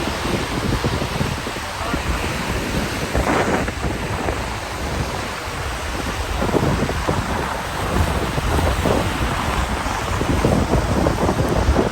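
Wind buffeting the microphone in gusts over a steady rush of rain.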